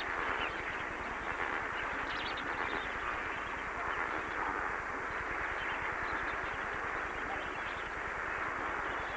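A large flock of lesser flamingos calling together in a dense, steady chatter of many overlapping calls during their massed courtship display.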